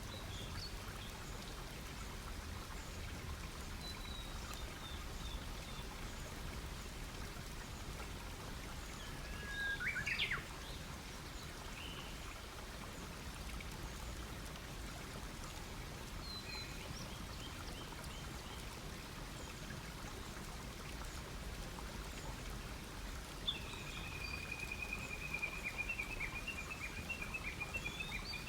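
Wood campfire crackling steadily, with birds singing: a sharp call about a third of the way in and a long trill near the end.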